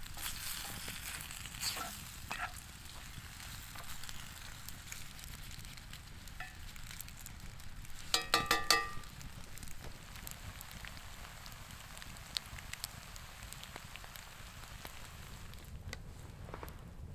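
Food sizzling and frying over campfire coals, a steady hiss with small crackles. About eight seconds in there is a short pitched sound, louder than the rest.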